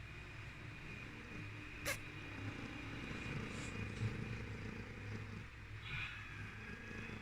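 Domestic cat purring steadily, a low pulsing rumble, with a sharp click about two seconds in.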